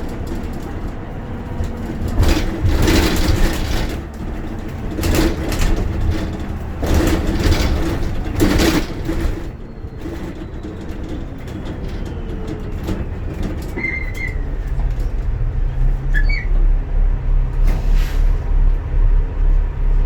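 Inside a moving bus: a steady low engine and road rumble with several loud, short rushing surges in the first half. From about three quarters of the way in, a low pulsing engine drone grows, beating several times a second.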